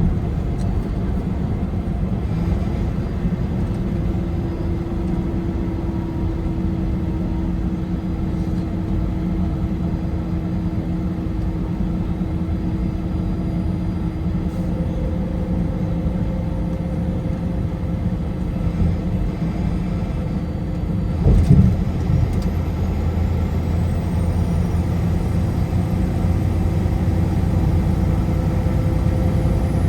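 Car driving at highway speed: steady road and engine noise with a low rumble. A brief knock comes about two-thirds of the way through, after which the rumble is a little louder.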